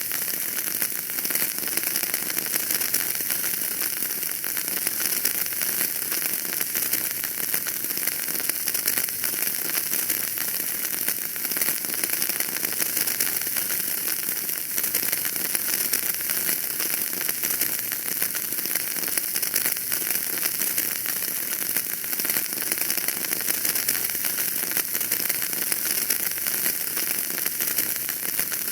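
Wood fire crackling in a fireplace: a dense, steady stream of small crackles and ticks over a soft hiss, with no single loud pop standing out.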